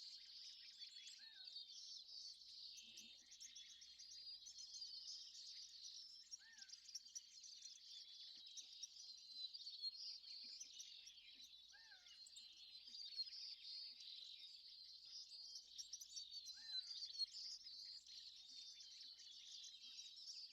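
Faint, dense chorus of many small birds chirping and twittering, with a short, lower call that repeats about every five seconds.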